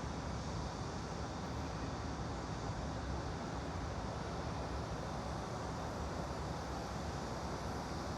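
Steady, even background noise with no distinct events: a white-noise ambience track laid under a silent study session.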